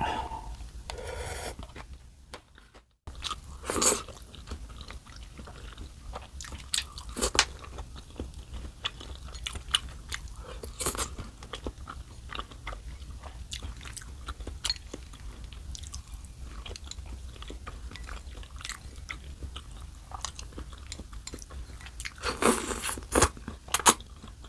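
A person eating: chewing with many short crunchy bites and clicks, and a louder cluster of them near the end. The sound cuts out briefly about three seconds in.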